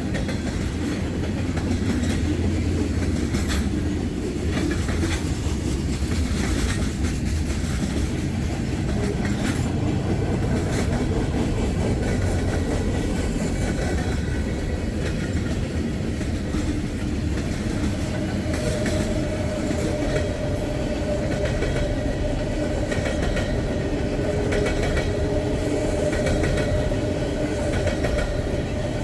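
Freight train rolling past, its steel wheels clicking over the rail joints. About two-thirds of the way through a steady high squeal joins in and holds.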